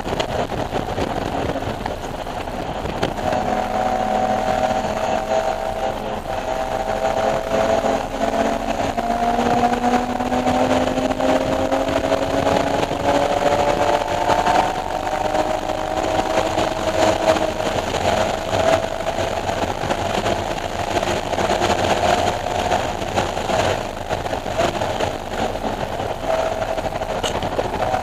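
BMW E46 M3's straight-six engine pulling hard under load, its pitch climbing slowly and steadily for about twelve seconds, then holding near one pitch with small rises and dips.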